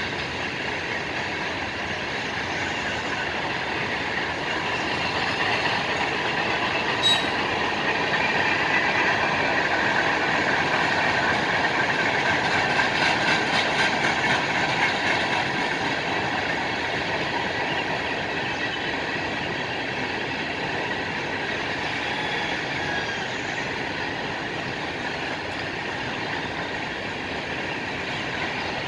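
Freight train cars rolling past at a steady speed: a continuous rumble of steel wheels on rail, with a light rhythmic clacking of the wheels. It grows louder toward the middle and eases off again.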